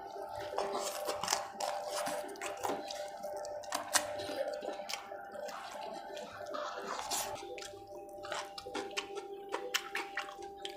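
Close-up mouth sounds of eating roasted chicken leg with the hands: wet chewing, smacking and many sharp clicks as the meat is bitten and torn off. Steady background tones run underneath.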